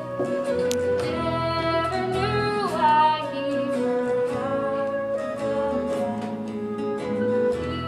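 A song: a woman's voice singing long held notes that slide between pitches, over instrumental accompaniment.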